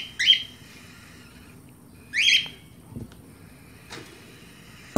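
Bird chirping: two short rising calls, one right at the start and another about two seconds in, with faint taps in between.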